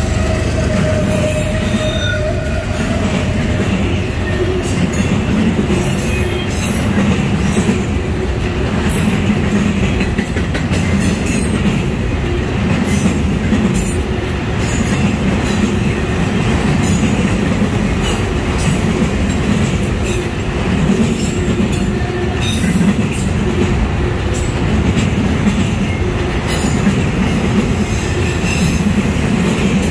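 Freight train of enclosed autorack cars rolling steadily past close by: a continuous rumble of steel wheels on rail, with irregular clicks and clanks as the wheels cross the rail joints.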